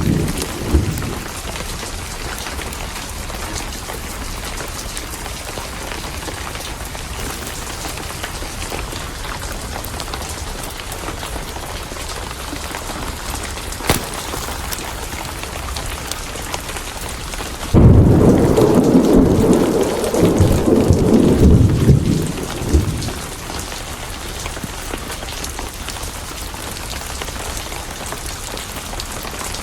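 Steady rain with a loud roll of thunder that starts suddenly a little past the middle and rumbles for about five seconds; the tail of an earlier thunderclap is fading at the start. A single sharp click sounds shortly before the thunder.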